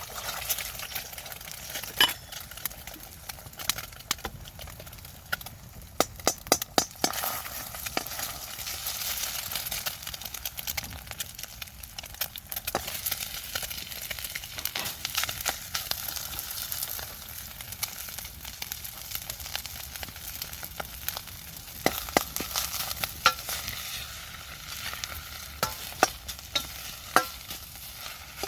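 Food sizzling as it is stir-fried in a wok, with sharp clicks and scrapes of a utensil against the pan, most frequent about a quarter of the way in and near the end.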